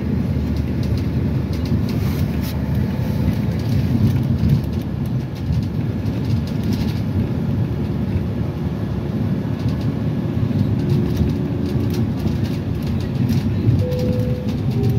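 A city transit vehicle running, heard from on board: a steady low rumble with scattered clicks and rattles. A rising motor whine starts near the end.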